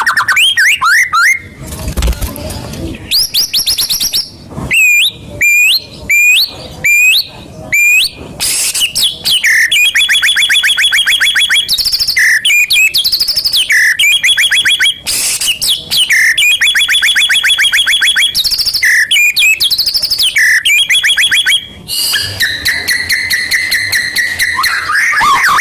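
Loud, continuous songbird song: fast rattling trills of repeated chips, broken by short pauses, mixed with whistled notes that rise and fall. This is a lure song played to stimulate caged white-rumped shamas to sing. About two seconds in there is a brief low rumble.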